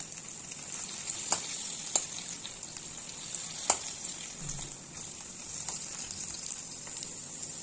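Baby corn and onions sizzling steadily in hot oil in a kadhai. Over it come a few sharp clicks of a knife and steel spatula knocking against the pan as the pieces are cut, three of them louder, in the first half.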